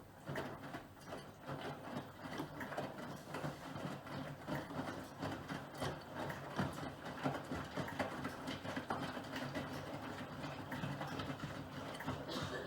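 Miele Professional PW6065 Plus washing machine running: a steady low motor hum under dense, irregular clicking and rustling.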